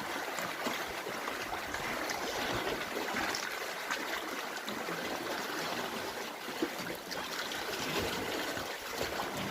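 Lake water splashing and trickling around a kayak: a steady wash of water with small scattered splashes.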